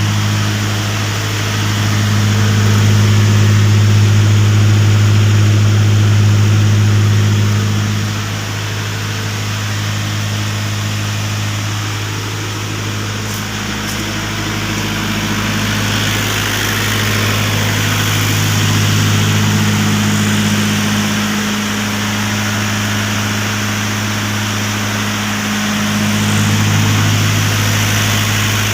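Two Perkins 27 kVA diesel generator sets running steadily with a deep, even hum. The loudness swells and eases slowly over several seconds.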